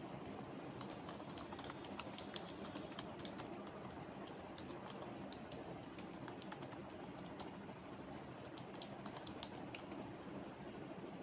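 Typing on a computer keyboard: irregular runs of quick key clicks over a faint, steady background hiss.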